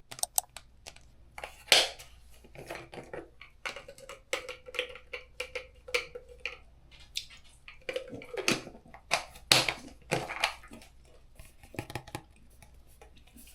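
Scattered small clicks, taps and rustles of objects being handled, with a faint steady low hum underneath.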